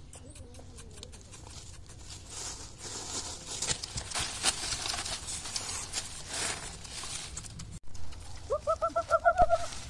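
Rustling and scraping of hands working among dry leaves, then near the end a bird calls a quick run of about nine short, evenly spaced notes lasting about a second.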